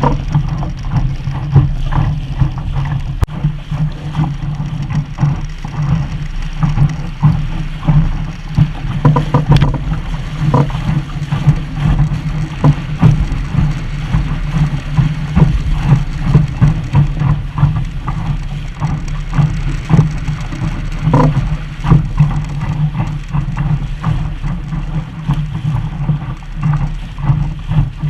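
Water rushing and splashing against the hull of a Sunfish sailing dinghy under way, with a steady low rumble and frequent irregular slaps.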